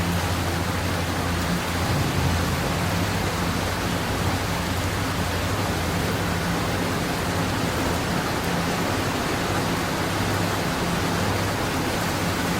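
Steady rushing noise over a constant low hum in a New York City subway station, holding an even level without a train arriving or departing.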